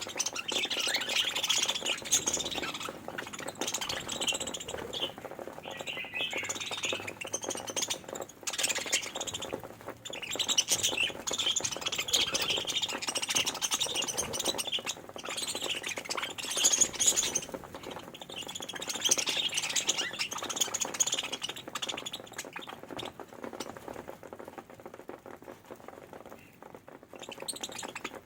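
A flock of budgerigars chattering and chirping continuously, with scattered squawks; the chatter thins out over the last few seconds.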